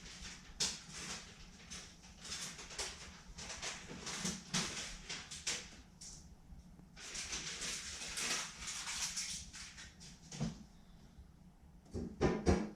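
Repeated hand strokes scraping across a car body panel during body filler work, irregular and hissy, over a low steady hum. Near the end comes a quick cluster of knocks.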